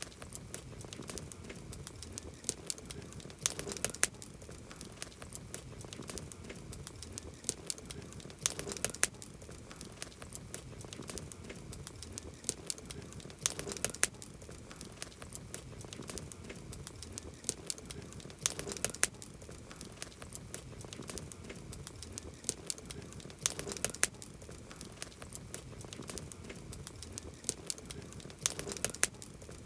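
Campfire crackling, with many sharp pops and snaps over a low steady hiss; clusters of louder pops come about every five seconds.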